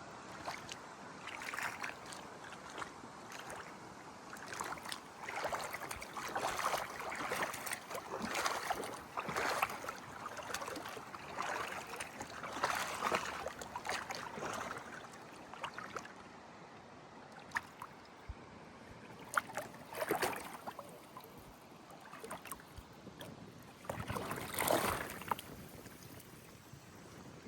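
Gentle lake water lapping and splashing in irregular swells, busiest through the middle and quieter near the end.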